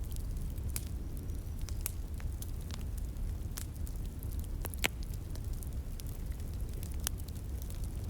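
Wood fire crackling with irregular sharp pops, the loudest a little before the middle, over a steady low rush of a flowing stream.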